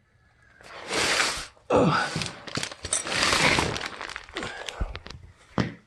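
Loud rustling and scraping in three bursts, then a couple of sharp knocks near the end.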